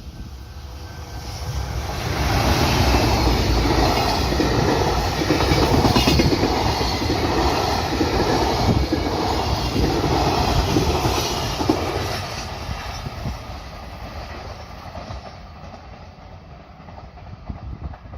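Freight train passing, its wheels clattering over rail joints in a regular rhythm. The sound builds over about two seconds, stays loud until about twelve seconds in, then fades away.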